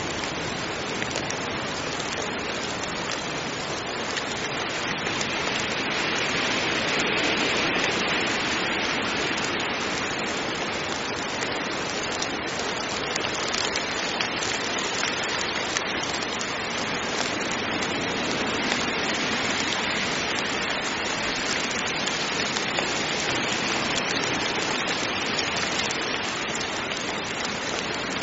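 Heavy rain falling in a steady, dense hiss, swelling slightly a few seconds in.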